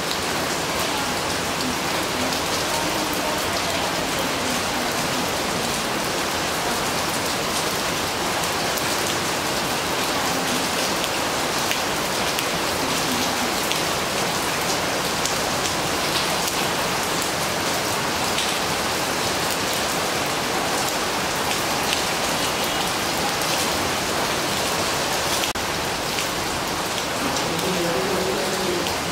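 Gentle rain falling steadily, an even hiss of many small drops.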